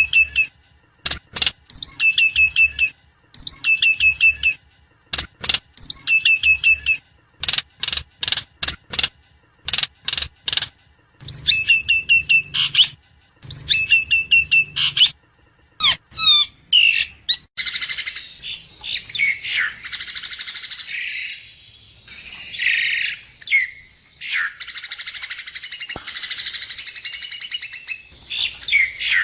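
Javan myna (jalak kebo) calling: short bursts of rapid, high repeated notes every second or two, which past the middle give way to a continuous, harsher chattering song.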